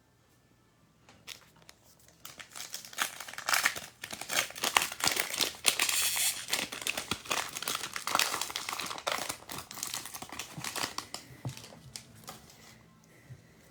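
A baseball card pack's wrapper being torn open and crumpled, a dense run of crinkling and short ripping rustles that starts about two seconds in, peaks in the middle and dies away near the end.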